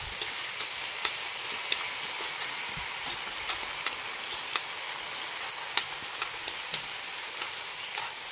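Pork belly sizzling steadily over low heat in a wok, coated in garlic, lemongrass and chili in a thickened fish-sauce glaze, with scattered sharp clicks as chopsticks turn the pieces against the pan.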